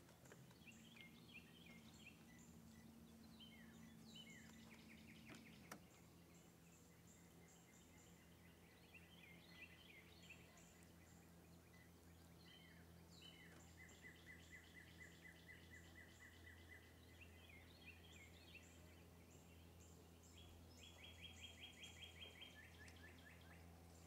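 Faint calls of small birds: quick chirps and rapid trills repeating throughout, over a low steady hum.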